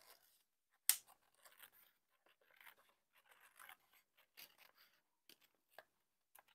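Scissors cutting paper in a series of short, quiet snips, with one sharper, louder snip about a second in.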